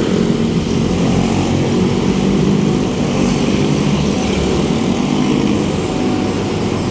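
Motor vehicle engine running steadily, with road and traffic noise.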